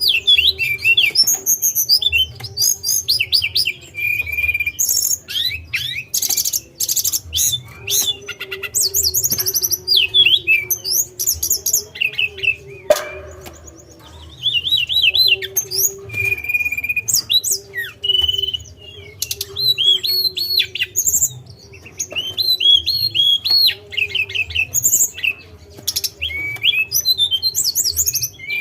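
Tledekan (a caged blue flycatcher) singing: loud, fast phrases of high whistles and quick rising and falling chirps, with short pauses between phrases. A faint steady hum runs underneath, and there is a single sharp click about halfway through.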